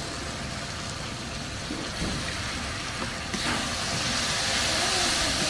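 Onion, capsicum and sauces frying in a steel wok, a steady sizzle as soy sauce is added and the mix is stirred with a metal spatula; the sizzle gets louder and brighter about three seconds in.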